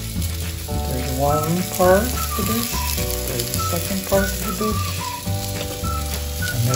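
Vegetables sizzling as they fry in a frying pan, under background music with a pulsing bass and a gliding melody.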